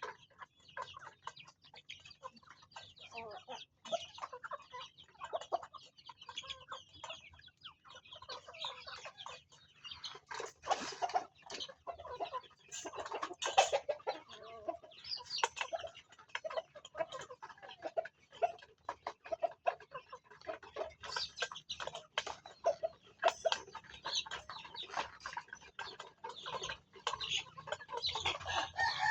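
A flock of farm chickens clucking, many short calls overlapping without pause, growing louder about a third of the way in.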